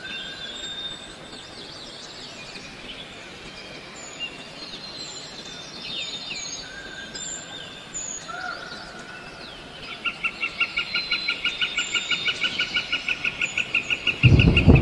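Forest birds chirping and whistling in scattered short calls. About two-thirds of the way through, a rapid pulsed call of about four or five notes a second starts and grows louder. Right at the end a loud, harsh noise suddenly cuts in.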